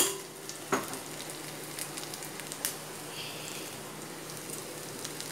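Sesame oil sizzling steadily in an iron kadai as diced elephant foot yam, onion and garlic fry, with a couple of light clicks.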